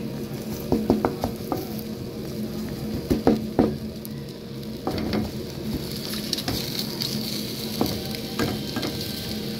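Meat loaf slices and egg sizzling in oil in a nonstick frying pan, with a wooden spatula scraping and tapping against the pan in several short clusters.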